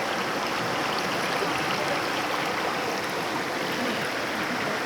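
A stream of water flowing steadily, an even, unbroken noise with no pauses.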